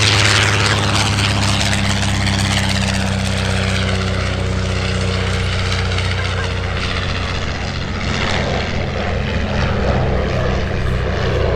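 Propeller aircraft engine running steadily, a drone of several low tones under a rushing noise that is brightest near the start.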